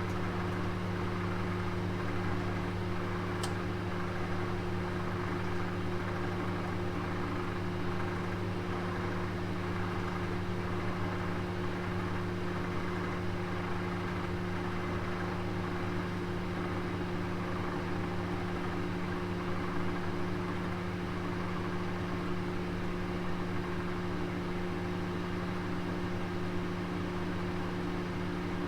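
Oven running: a steady electric hum over an even hiss, with one faint tick about three and a half seconds in.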